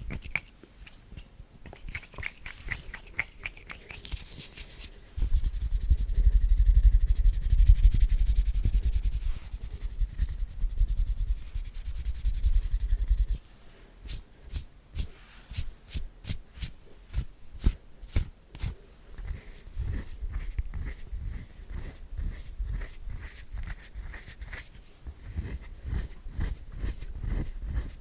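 Close-miked ASMR hand sounds: rapid finger taps and clicks, broken by a loud stretch of palms rubbing quickly together from about five to thirteen seconds in.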